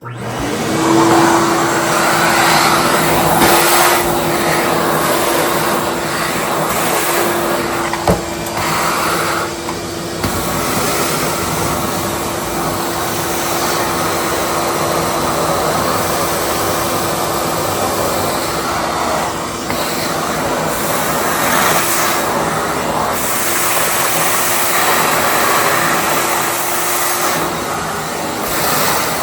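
Wet vacuum starting up abruptly and running steadily with a constant motor whine, sucking up floodwater seeping back into the basement.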